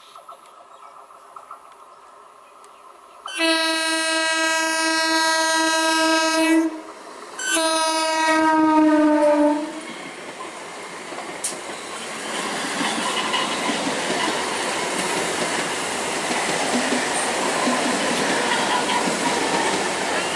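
EMU local train sounding its horn in two long blasts, the second one dropping in pitch as the train passes. The steady rush and clatter of its coaches running by follows and lasts to the end.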